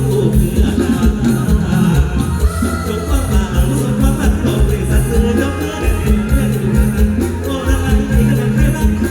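Live mor lam band music with a heavy, steady bass-drum beat and bass line, and a voice singing over it.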